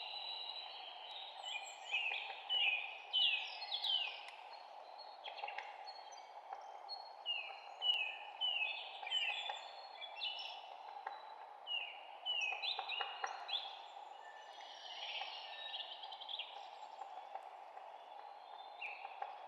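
Several songbirds chirping throughout, many short, quickly falling notes in rapid runs, over a steady background hum of ambient noise.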